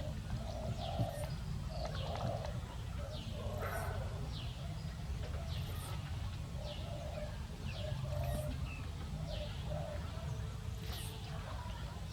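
Birds calling: short, high, falling chirps about once a second, and a quicker string of low cooing notes, over a steady low rumble.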